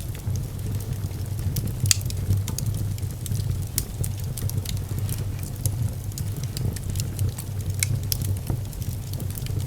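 Wood fire in a fireplace crackling, with many short sharp pops scattered over a steady low rumble.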